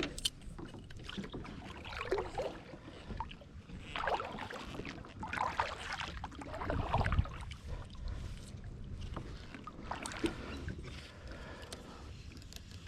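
Kayak being paddled: the paddle dips and splashes in the water in uneven strokes every second or two.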